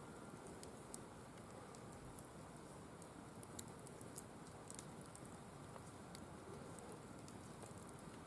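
Firewood burning in a wire-mesh fire pit: faint, irregular crackles and pops over a low steady hiss, with a couple of slightly sharper pops about halfway through.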